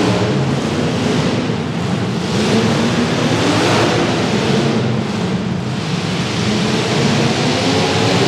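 Demolition derby cars' engines running and revving together: a loud, continuous rumble whose pitch shifts up and down under a rushing noise that swells and eases every second or two.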